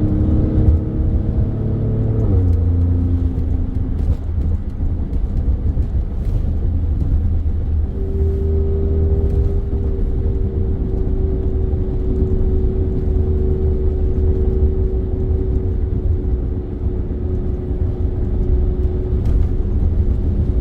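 Alfa Romeo Stelvio Quadrifoglio's twin-turbo 90-degree V6, fitted with a K&N air filter, running under way with a deep low rumble. Its pitch shifts about two seconds in, then settles into a steady drone from about eight seconds on.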